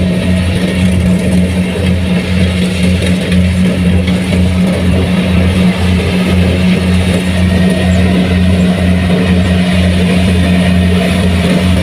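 Kubota rice combine harvester running steadily under load, a low engine drone with a regular pulse a little under twice a second.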